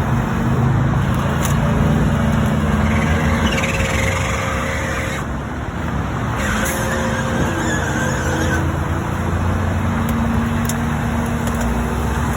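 A tow truck's engine runs steadily with a constant low hum, over roadside traffic noise. A faint higher whine comes in twice in the middle.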